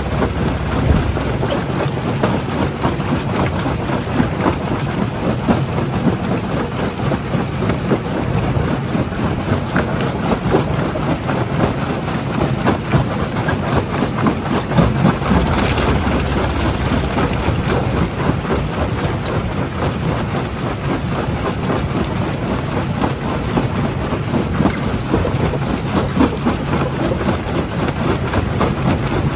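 Primary jaw crusher running, rock crushing and clattering inside it as a constant dense rattle of knocks over a steady low engine hum.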